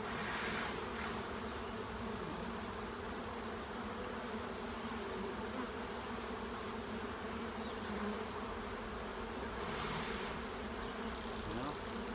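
Honeybee colony buzzing steadily, a dense drone of many bees from a swarm's open hive. A couple of brief rustling swells come about a second in and again near the end.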